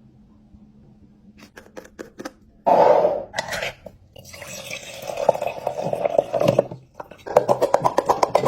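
Clicks, knocks and clatter of kitchen containers being handled, with stretches of noise that come and go.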